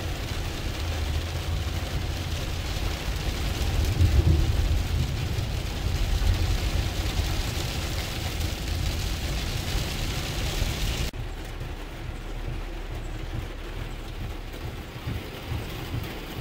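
Rain and vehicle road noise heard from inside a moving truck: a steady hiss over a low rumble, strongest around four seconds in. About eleven seconds in the hiss drops off abruptly, leaving mainly the low rumble.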